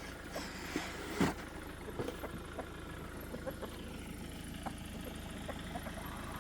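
Chickens clucking softly in short scattered calls over a steady low rumble, with one sharper click about a second in.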